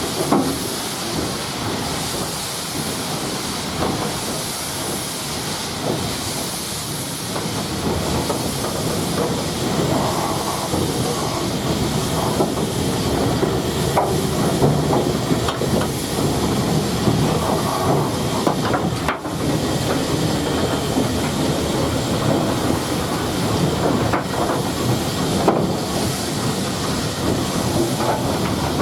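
Steam train running, with a steady hiss of steam over the train's running noise.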